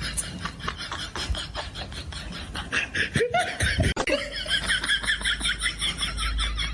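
A person laughing in quick, repeated bursts, loudest in the second half.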